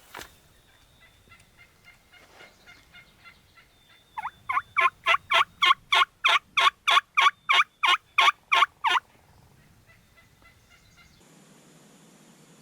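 Turkey yelping: a loud, steady series of about fifteen evenly spaced yelps, roughly three a second, preceded by fainter yelps. A sharp click comes right at the start.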